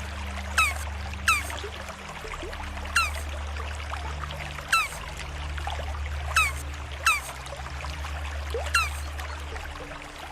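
A turtle chirping: short, high calls that fall sharply in pitch, seven of them at uneven intervals. Behind them runs a steady trickle of water and a low hum, like an aquarium filter.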